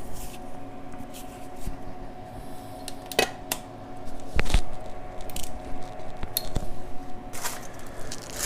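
Scattered metallic clicks and clinks of hand work on the exhaust manifold studs of a 3SGTE engine, a sharper one about three seconds in, over a faint steady hum.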